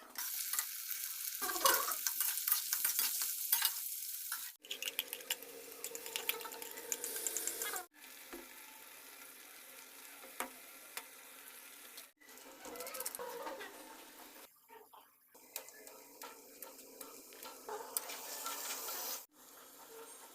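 Chicken bhuna sizzling and crackling as it fries in a pan while it is stirred, with scraping and clicking from the stirring utensil. It is loudest at the start, and the sound is broken by several abrupt cuts.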